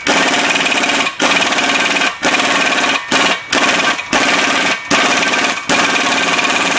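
Pneumatic air tool hammering in rapid bursts with short breaks, working a rust-frozen drive axle shaft out of the wheel hub bearing.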